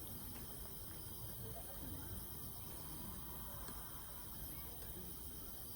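Insects trilling steadily in a high, finely pulsing chorus, with a faint murmur of distant voices underneath.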